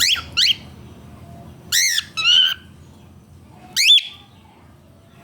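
Cockatiel calling: about five short, loud chirping calls, mostly quick upward sweeps in pitch, one arching up and down, with pauses between them.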